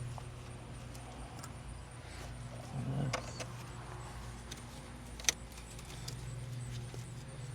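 2009 Chevy Traverse's 3.6-litre V6 idling with a steady low hum while misfiring on cylinder 4. A short rattle of handled parts comes about three seconds in, and one sharp click a little after five seconds.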